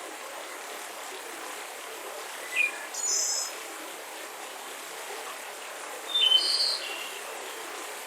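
Birds chirping in short bursts of calls, first about two and a half seconds in and again about six seconds in, over the steady rush of a mountain river.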